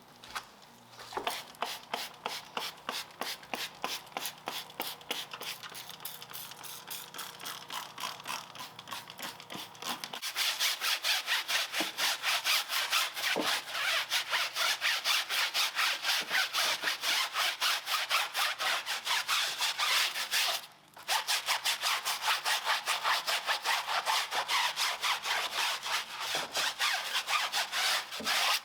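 Detailing brush scrubbing a car's wheel in quick, rhythmic back-and-forth strokes. The strokes get louder about ten seconds in, with a brief pause about two-thirds of the way through.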